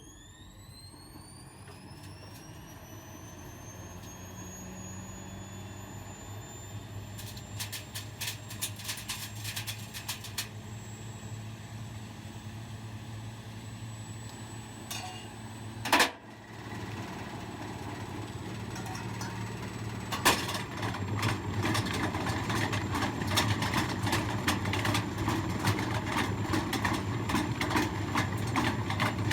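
Washing machine spinning up: its motor whine rises steadily in pitch over the first several seconds, with scattered rattling. One loud bang comes about halfway through. After that the drum clatters and knocks harder and faster as the spin builds.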